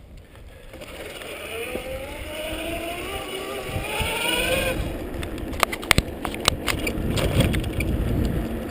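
Electric bike's drive motor whining, rising steadily in pitch as the bike picks up speed, then cutting off suddenly about five seconds in. A few sharp clicks follow, over a low rumble of riding noise.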